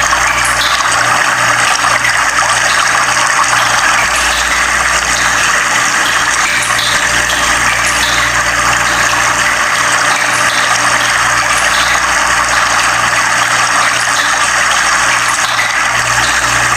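Running water rushing steadily, as from a stream or small waterfall.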